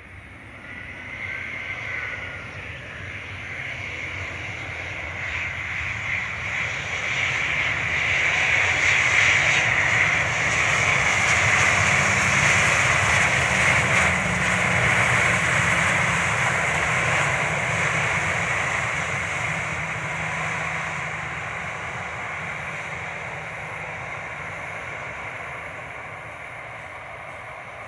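Loud rushing noise of a passing vehicle, building for about ten seconds, holding, then slowly fading away.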